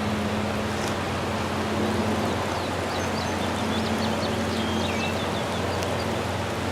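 Steady hiss of rain falling, under a low steady hum, with a few faint bird chirps about midway.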